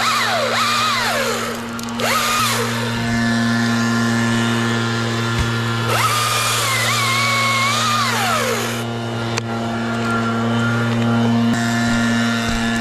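Gas chainsaw revving up and down in bursts, with bouts of cutting near the start and again about six seconds in, over a steady low engine drone running underneath.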